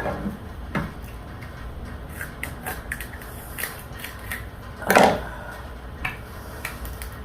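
Close-miked eating sounds: scattered short smacks and clicks of chewing and handling seafood-boil food, with one louder, longer noise about five seconds in, over a steady low hum from a room heater.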